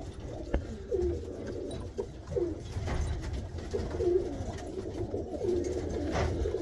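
Tippler pigeons cooing in a loft: repeated short, bending coos over one another, with a few light clicks.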